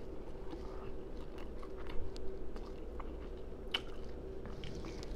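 A person chewing and smacking loudly close to the microphone, with scattered mouth clicks and crunches from crispy fried fish and fried rice.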